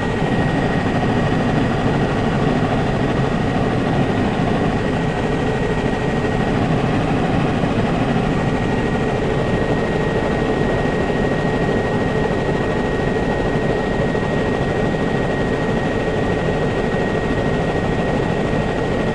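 Steady drone of a survey aircraft in flight, heard from inside the cabin, with a thin high tone held throughout.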